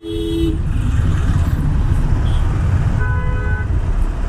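Road traffic with vehicle horns honking: a short honk at the start and another about three seconds in, over a steady low rumble of engines and wind.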